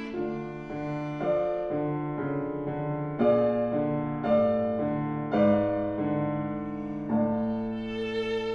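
Viola and piano playing classical chamber music: piano chords struck every second or so under sustained bowed viola notes.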